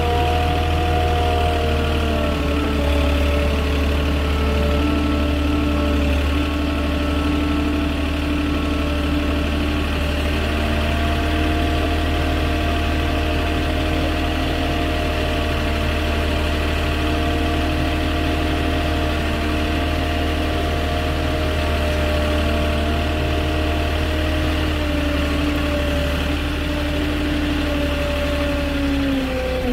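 Forklift engine running steadily, a low drone with a steady whine over it. The pitch dips slightly near the end.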